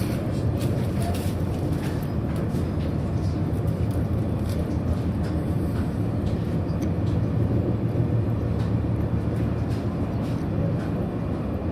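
Interior running noise of a TGV Duplex high-speed train accelerating on level track: a steady low rumble with scattered faint clicks.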